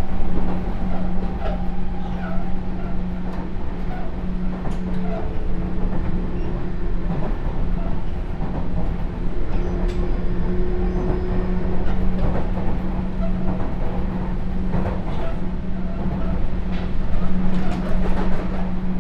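Sotetsu New 7000 series electric train running, heard from inside the car: a steady hum with a low tone throughout, fainter higher tones, and scattered clicks of the wheels over the rails.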